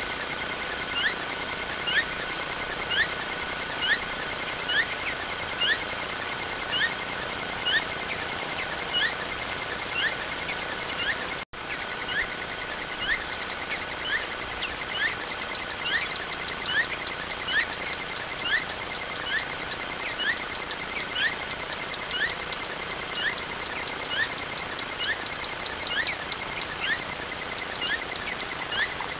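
Small birds calling: a short rising chirp repeated about twice a second, joined about halfway through by a fast run of high ticking notes, about four a second. The sound drops out briefly about a third of the way in.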